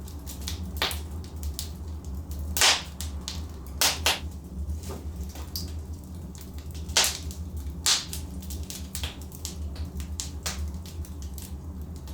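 Wood logs burning in a fireplace, crackling with irregular sharp pops and snaps over a low steady rumble of the fire. The loudest snaps come about two and a half, four, seven and eight seconds in.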